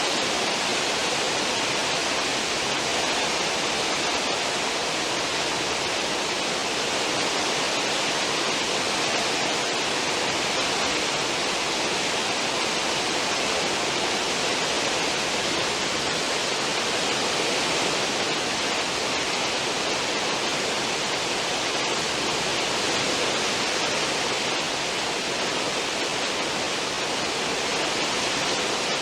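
Churning wake water behind a cruise ship's stern: a steady, even rush of foaming water with no breaks.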